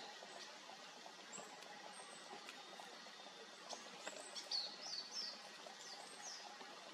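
Birds chirping: scattered short, high chirps, with a quick cluster of them a few seconds in, over a faint steady hiss.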